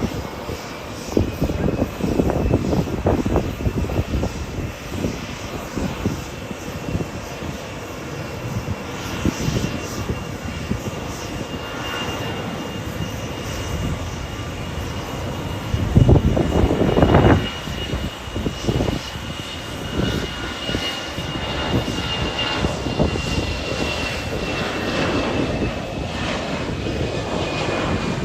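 Jet airliner engines running as the plane passes: a steady high whine that climbs slowly in pitch, holds, and sinks a little near the end. Under it is a continuous rush with uneven low rumbling surges, the strongest about sixteen seconds in.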